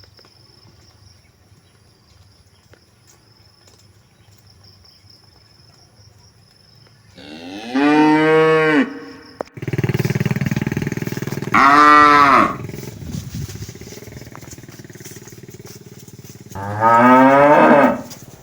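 A cow mooing three times, each call one to two seconds long, the last one rising in pitch. A rougher, lower sound runs between the first and second calls.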